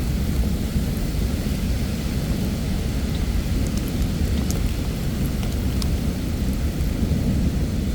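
Heavy summer thunderstorm rain falling steadily, with a deep steady rumble underneath and a few sharp drop ticks near the middle.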